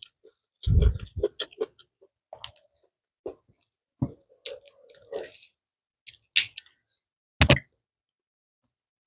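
Close-miked eating: a person chewing food with the mouth, in separate crunches and wet mouth sounds with short pauses between them, and two sharper crunches in the second half.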